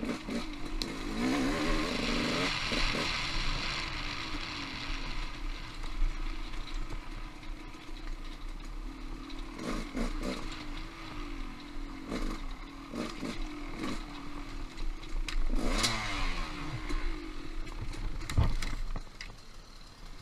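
Off-road motorcycle engine running and changing pitch as it is ridden over rocky singletrack, with several sharp knocks and clatters from the bike hitting rocks. The engine eases off near the end.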